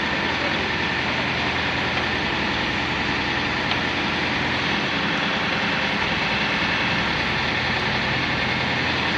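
FYX 200 water-well drilling rig running, its engine going at a steady, unchanging pace.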